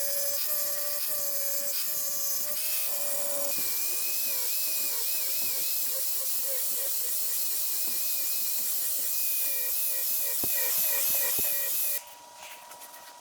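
6-inch angle grinder grinding and sanding the steel of a railway-rail anvil: a loud hissing whine that wavers in pitch as the disc bears into the metal. It cuts off sharply about twelve seconds in, leaving a much fainter steady tone.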